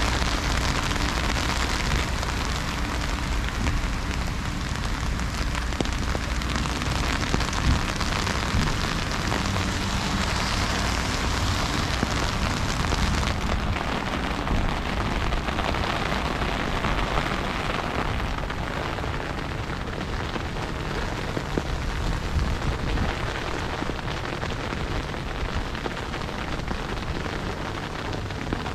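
Heavy freezing rain falling in a steady hiss, with a low rumble underneath.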